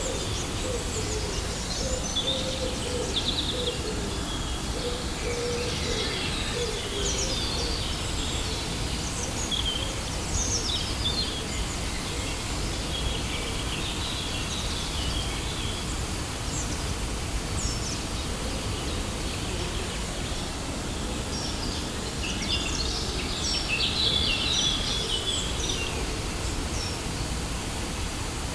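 Waterfall's steady rush of falling water, with birds chirping on and off over it, most busily near the end.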